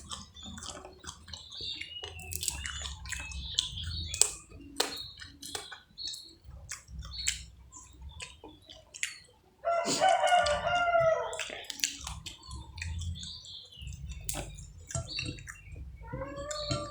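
Close-up eating sounds of fried catfish: chewing with many short, sharp mouth clicks and smacks. A rooster crows once about ten seconds in, and starts crowing again near the end.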